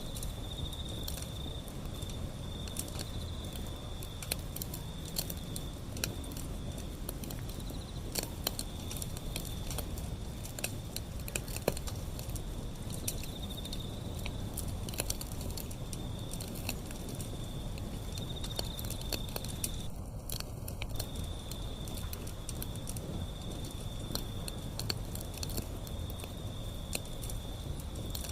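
Wood fire burning, with frequent small irregular crackles and pops over a low steady rumble of flame.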